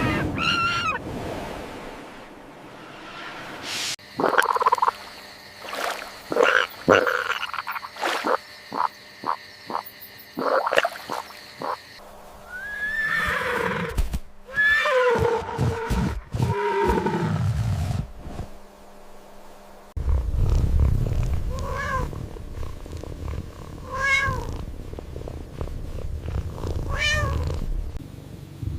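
Cat meowing: a run of sharp clicks early on, then drawn-out, bending meows, then short meows repeating about every second and a half over a low rumble near the end.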